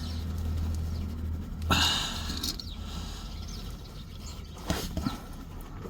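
A ratchet and oil-filter wrench straining at a tight oil filter: two short scraping, squeaky noises, about two seconds in and near the end, over a steady low hum.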